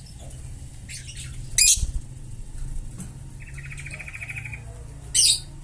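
Pet parrot calling: two short, loud, harsh screeches about three and a half seconds apart, with a buzzy trill between them. A low thump comes just after the first screech.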